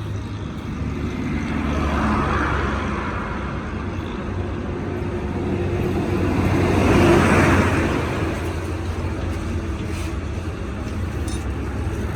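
Road traffic: a steady low engine rumble, with vehicles passing by that swell and fade about two seconds in and again about seven seconds in.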